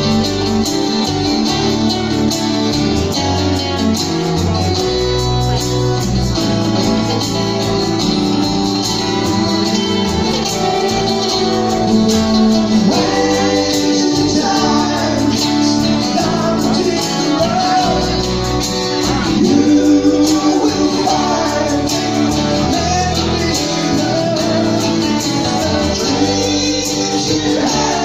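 Live acoustic rock band performance: strummed acoustic guitars with a melody line gliding over them, louder around the middle.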